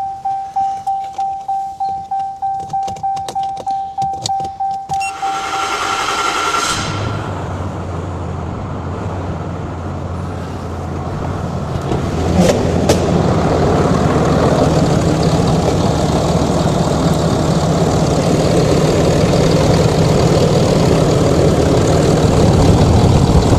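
Pickup truck engine cranking over on the starter for about five seconds with a steady tone sounding over it, then catching and running steadily: its first start after fresh injectors and a new intake were fitted. About twelve seconds in the engine's sound steps up and holds at a higher, even level.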